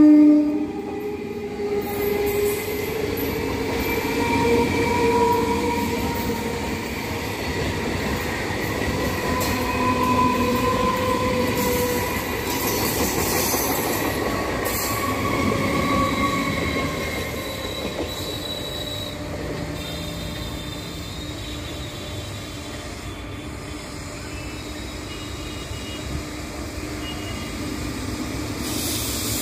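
Electric suburban train (EMU) passing at close range: a continuous rumble of wheels on rail with squealing wheels, and faint whining tones that drift up and down in pitch. The sound eases somewhat in the second half.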